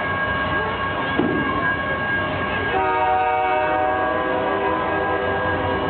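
Train horn sounding a held chord of several tones, starting about three seconds in, over the steady noise of a train.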